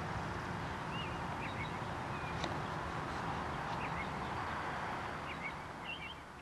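Small birds chirping in short, repeated squiggly calls over a steady rushing noise that fades away near the end.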